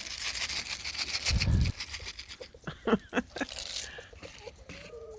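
Rustling and crinkling as a packet of dried mealworm treats is handled, lasting about a second and a half, with a single low thump. A few short calls from backyard hens follow.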